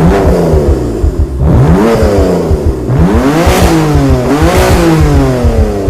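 BMW M4's twin-turbo straight-six revving through an Akrapovic exhaust system, the engine note rising and falling in pitch about four times.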